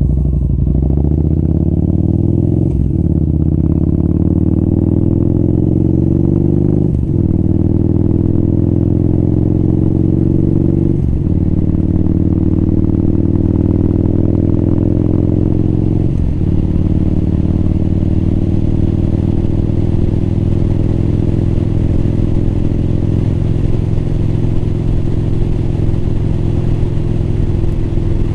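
Motorcycle engine accelerating up through the gears, its pitch climbing and dropping at each of four shifts, then running steady at cruising speed for the second half.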